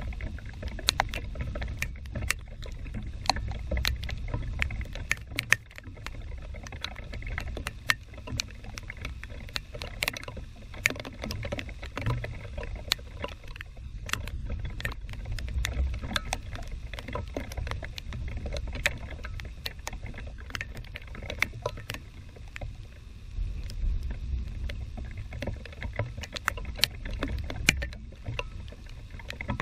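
Thunderstorm rain: many irregular ticks of raindrops hitting close to the microphone, over a steady low rumble of wind buffeting the microphone.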